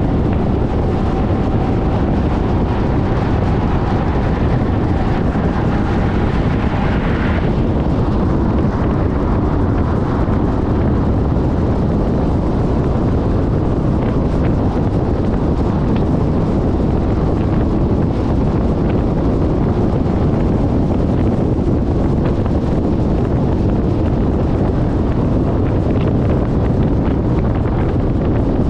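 Steady, heavy wind buffeting on the microphone of a camera mounted on a moving Suzuki Burgman 400 scooter, with road and motor noise beneath it. A faint steady tone fades out about seven seconds in.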